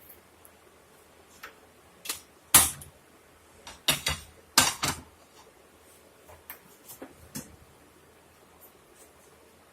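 Rolling pin and wooden rolling board knocking and clattering a few times while a gram-flour roti is rolled out, the loudest knock about two and a half seconds in and a quick cluster around four to five seconds.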